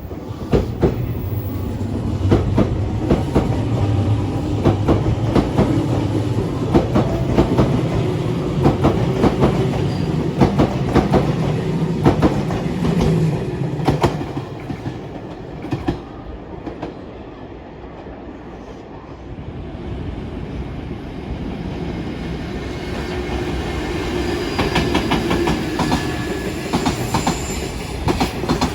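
A train running through on the main line, its wheels clattering rhythmically over rail joints above a steady rumble. The clatter eases off about two-thirds of the way through, then builds again as the passing continues or another train approaches.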